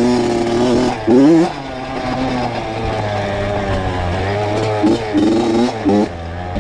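Honda CR two-stroke dirt bike engine running with the throttle worked: a sharp, loud rev about a second in, then steadier running, and a few quick revs near the end.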